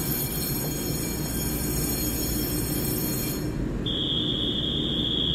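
TRA EMU3000 electric train standing at an underground platform with its doors open: a steady low rumble, with high thin whines that cut off a little past three seconds in. About four seconds in, a high steady warning tone begins: the alert that the doors are about to close before departure.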